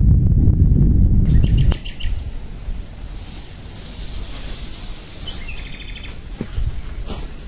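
A low rumble of wind on the microphone that cuts off abruptly near the two-second mark, followed by quieter outdoor ambience: a bird chirping in two short runs of quick notes over a steady high hiss.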